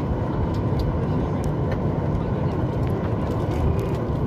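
Steady low rumble of a Boeing 737 MAX 8 heard from inside the passenger cabin: its CFM LEAP-1B engines and airframe noise, with a few faint clicks.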